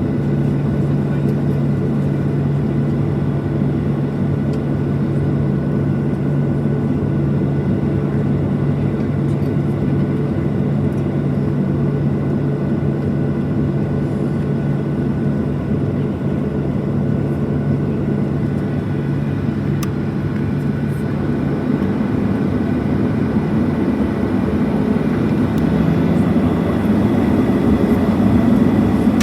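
Steady jet engine and airflow noise heard inside the cabin of a Boeing 737-700 with CFM56-7B engines, a low steady drone under an even rush. Near the end the drone shifts pitch and the sound grows louder as the engines change power.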